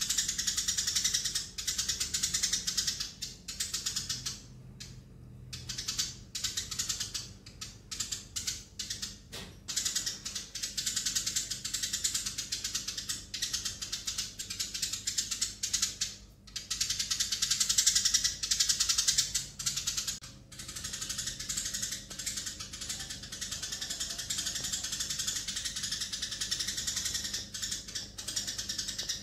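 Eurasian tree sparrows chirping in a rapid, dense chatter, in long stretches broken by a few brief pauses.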